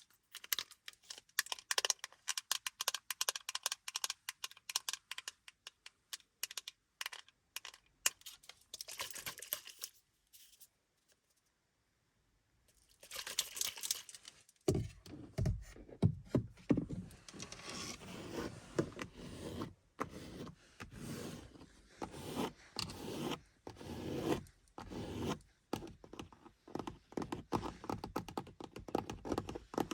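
Close-miked fingernail tapping and scratching on car surfaces. Quick, rapid taps fill the first third, then there is a short pause. After that come longer scratching strokes in a loose rhythm.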